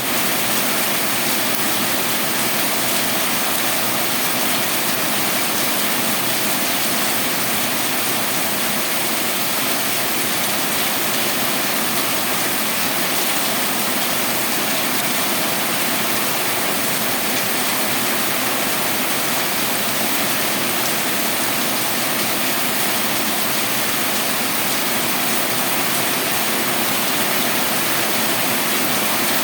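Heavy rain pouring down in a steady downpour, a dense, even hiss that holds at the same level throughout.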